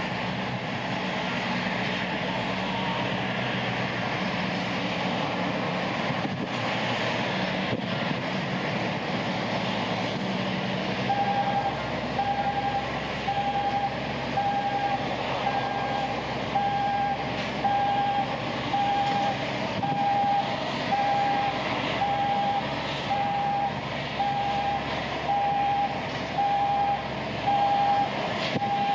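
Airliner jet engines running steadily on the ground, with a low hum that fades about a third of the way in. From then on a reversing alarm beeps over it, about once a second.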